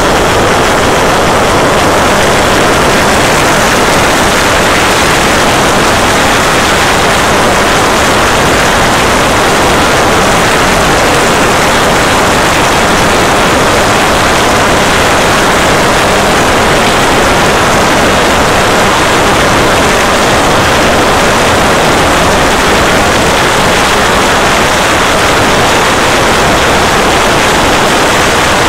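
Valveless pulse jet engine running steadily and very loud, an even noise with no breaks or changes in pitch.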